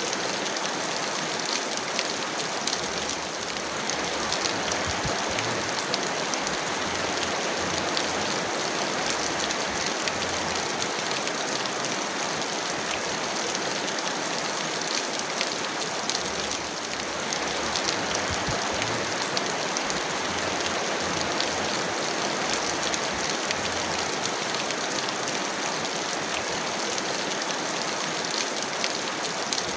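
Heavy rain falling steadily, a dense hiss with many individual drops ticking on a surface.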